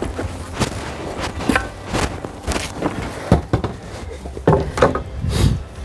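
Footsteps and about ten irregular knocks and clunks, with a low steady rumble under them.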